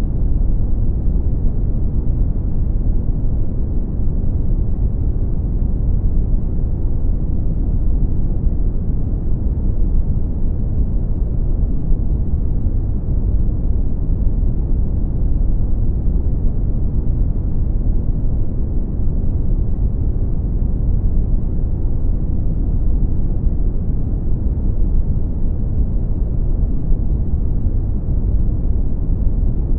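Synthetic brown noise: a steady, deep rumbling hiss with its energy in the low end and little above a couple of kilohertz, unchanging throughout.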